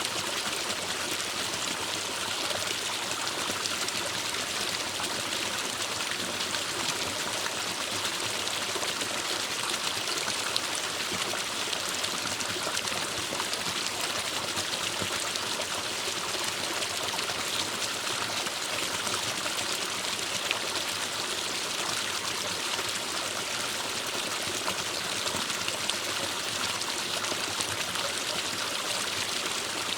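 Forest stream flowing and splashing over rocks, a steady even rushing and trickling with no breaks.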